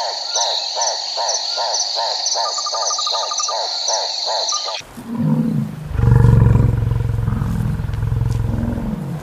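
Bison grunting and bellowing in low, rumbling calls, starting about five seconds in and loudest about a second later. Before that, a rhythmic chirping, about three chirps a second, runs over a steady high whine.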